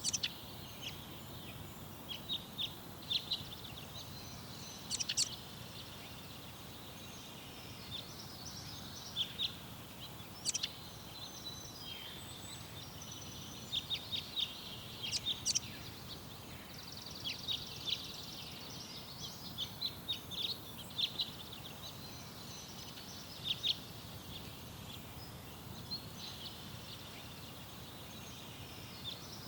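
Small garden songbirds chirping and twittering: many short, high chirps in loose clusters throughout, over a steady low background hum.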